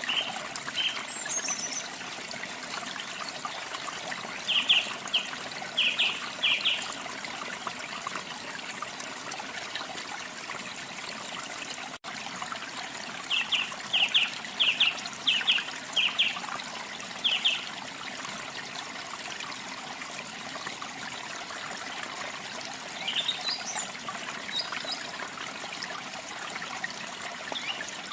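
Water trickling steadily, with a small bird calling over it in two runs of short, quick repeated chirps and a few higher chirps near the end. The sound cuts out for an instant midway through.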